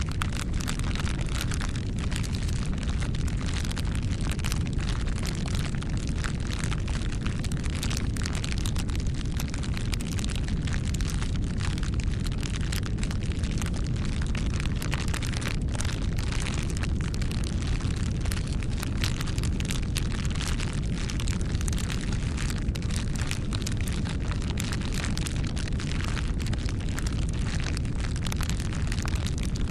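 Campfire burning: a steady low rush of flames with frequent, irregular sharp crackles and pops of burning wood.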